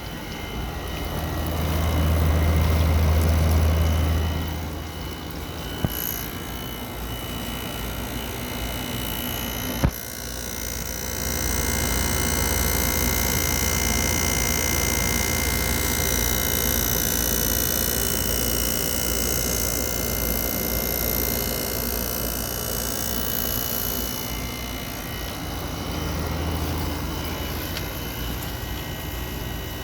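2024 Midea 5,000 BTU window air conditioner running: steady fan and airflow noise over a low hum. The hum is strong for the first few seconds, then fades and comes back near the end. Two sharp clicks come about six and ten seconds in, and after the second the airflow noise grows louder and brighter.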